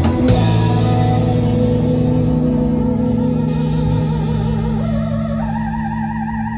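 A live band's closing chord ringing out on held guitar notes through echo effects and slowly fading, with a warbling, wavering tone coming in about five seconds in.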